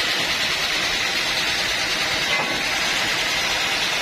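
Sawmill machinery running steadily: a constant hissing din with a faint steady high whine.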